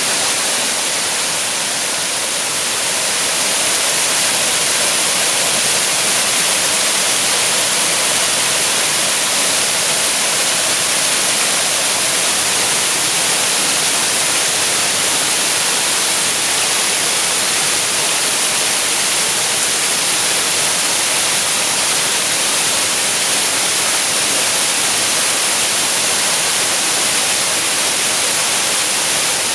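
Waterfall: water pouring and splashing in a steady, hissing rush with no breaks.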